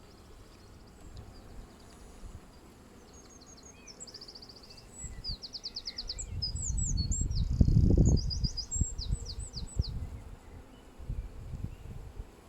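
A songbird singing in quick runs of repeated high notes and short trills. Under it a low rumble builds to its loudest about two-thirds of the way in, then fades.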